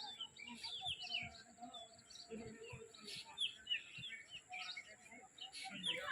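A flock of small birds chirping, many short calls overlapping continuously, with a few faint low knocks in the background.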